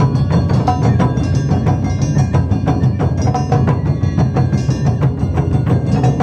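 Live Japanese taiko drumming with plucked shamisen: dense, fast drum strokes over a heavy low drum sound, with short plucked notes above.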